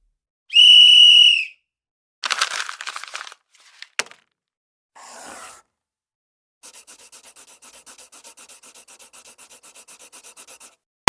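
A string of short sound effects. It opens with a loud whistle blast about a second long on one steady pitch, the loudest sound here. Then come a short crackling burst, a click, a brief hiss, and a fast, even run of ticks, about nine a second, lasting about four seconds.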